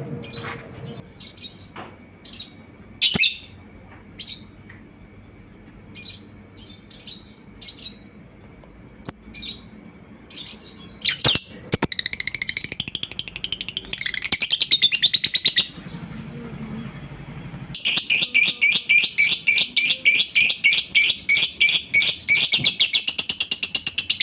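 Lovebird calling: scattered short high chirps, then two long, fast chattering trills (ngekek). The first lasts about four seconds and the second, about six seconds long, starts past the middle and is still going at the end.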